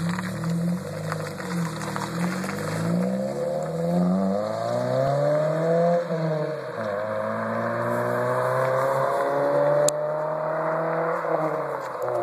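Mazda 3 with a 2.3-litre four-cylinder engine and a Magnaflow exhaust, accelerating with rising pitch. The pitch drops at a gear change about six seconds in, then climbs again more slowly. A single sharp click sounds near the end.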